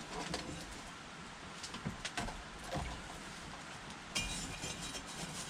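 A few faint metal clinks, then from about four seconds in a steady hiss as a hot handle is cooled in water.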